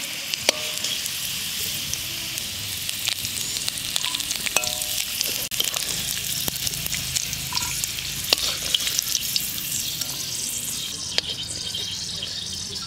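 Garlic cloves and dried red chillies sizzling in hot oil in an aluminium wok, with a metal spatula scraping and ticking against the pan as they are stirred and scooped out.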